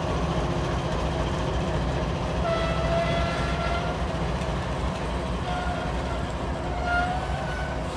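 Norfolk & Western 611 J-class locomotive and its cars rolling slowly past on the rails: a steady low rumble, with high thin squeals that come and go, one from about two and a half seconds in and more from about five and a half seconds in.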